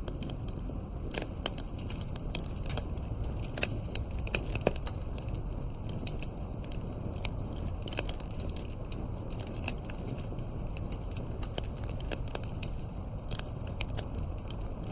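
Campfire burning: wood crackling and popping in irregular sharp snaps over a steady low rumble of flames, with a few louder pops about four to five seconds in.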